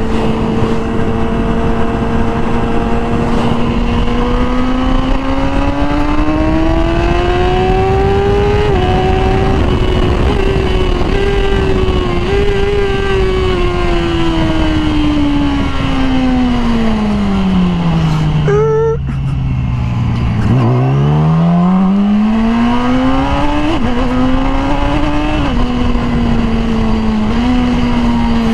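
Yamaha R6 sport bike's inline-four engine with a Graves aftermarket exhaust, under way: it holds steady, pulls up in revs, then winds down in a long fall as the bike slows. About twenty seconds in it picks up again, climbing through three quick upshifts.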